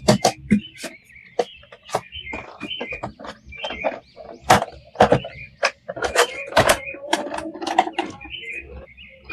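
Irregular sharp clicks and taps of plastic action-figure toys and packaging being handled, with some faint squeaks.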